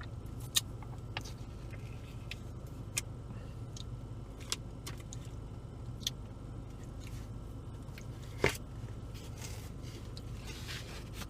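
A person chewing and biting into a slice of BBQ chicken pizza close to the microphone, with scattered soft mouth clicks and smacks and one sharper click about eight and a half seconds in, over a steady low hum.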